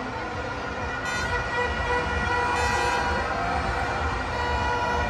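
Busy crowd soundscape with many steady horn-like tones sounding at once and slow rising-and-falling, siren-like wails over a constant low rumble.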